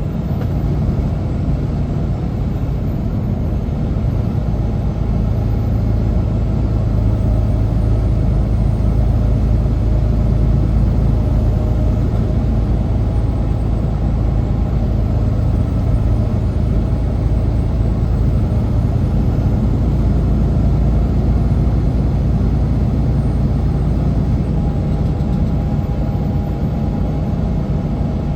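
Semi truck's diesel engine running with a steady low drone, mixed with road noise.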